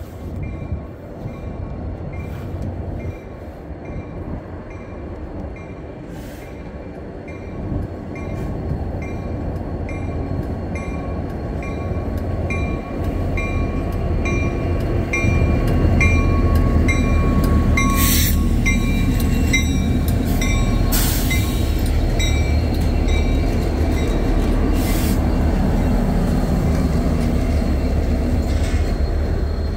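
Freight train cars rolling past, the low rumble growing louder over the first half and then holding steady, with a thin wheel squeal and a few sharp clanks. A bell-like ding repeats at a steady pace, about every two-thirds of a second.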